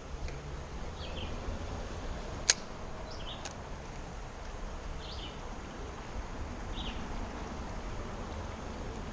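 A small bird chirping briefly four or five times over a steady low outdoor rumble, with one sharp click about two and a half seconds in.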